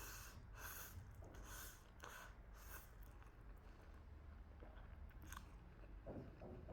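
A person chewing a big mouthful of food close to the microphone, faint: a quick run of about six chews in the first three seconds, then slower and quieter chewing.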